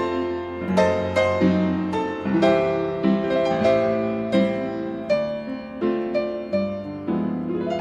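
Piano music: notes and chords struck about every three-quarters of a second, each ringing out and fading.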